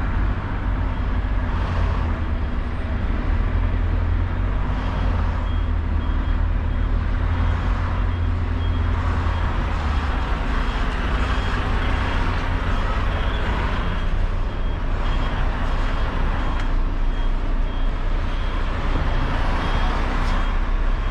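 HGV's diesel engine running at low speed as the lorry is manoeuvred into a parking space, with a faint high beep repeating at even spacing.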